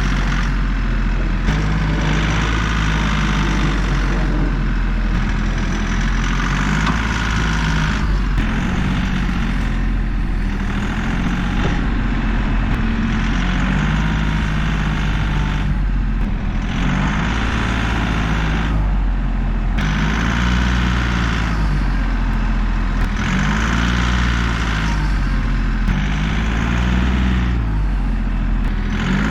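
Kioti CK3510 compact tractor's three-cylinder diesel engine running hard, its pitch rising and falling over and over as it is throttled up and eased off while pulling on a chained tree.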